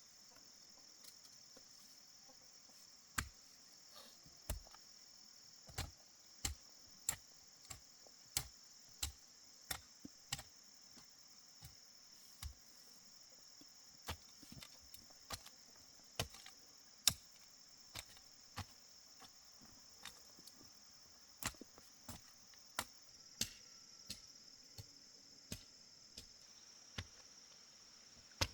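Sharp knocking strikes, about one or two a second and uneven in strength, as of manual work with a tool. A steady high-pitched insect drone runs underneath.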